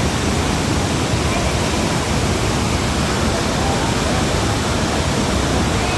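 Steady roar of the Iguaçu Falls, a huge mass of water pouring over the cliffs, a dense, even rushing noise with no let-up.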